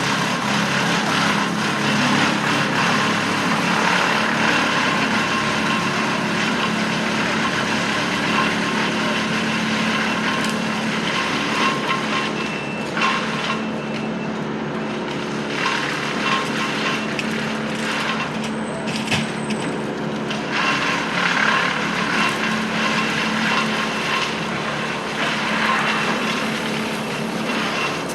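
Engine of heavy work equipment or a truck running steadily, with a few light knocks.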